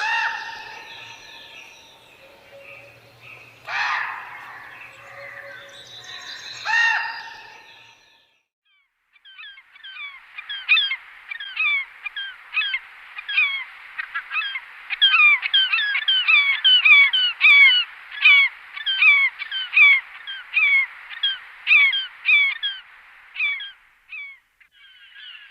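A few separate animal calls, then after a short break a long stretch of dense bird chatter: many rapid, falling chirps overlapping, as from a flock calling together.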